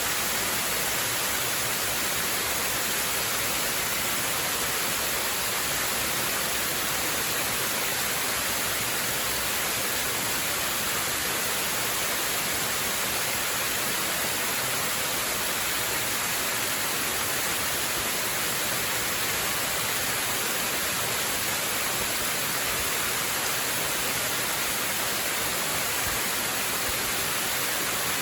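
Waterfall: a steady, unbroken rush of falling water, bright and hissy, with no changes or separate events.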